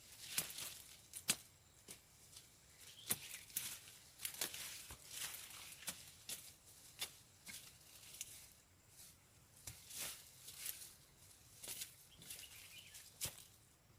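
Irregular rustling with sharp clicks and snaps, roughly one or two a second, like dry material being handled.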